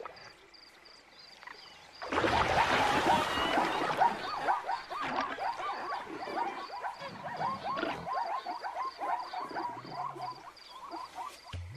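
Animal calls: a loud noisy burst about two seconds in, then a long run of quick, repeated rising-and-falling calls, over a steady, evenly pulsing high chirp.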